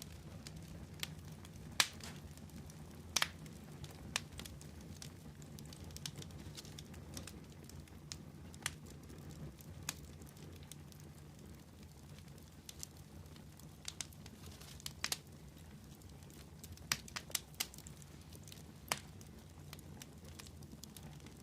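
Wood fire crackling: irregular sharp pops and snaps over a low steady rumble, with small clusters of pops about three seconds in and again in the last third.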